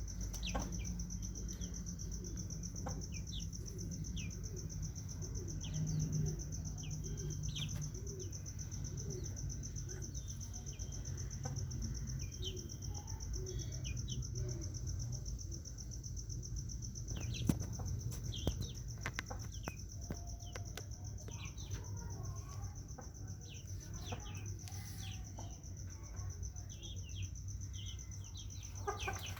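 Birds chirping in short, scattered calls, with a run of low, evenly spaced calls, about two a second, in the first ten seconds. A steady high-pitched whine runs underneath.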